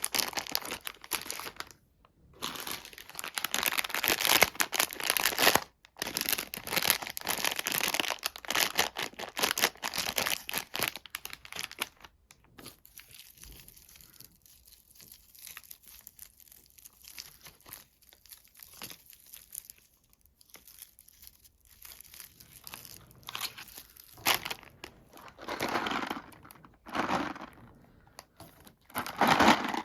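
Crinkling and tearing of a candy wrapper being handled and opened: dense crackling for the first twelve seconds, quieter rustling in the middle, then more bursts near the end.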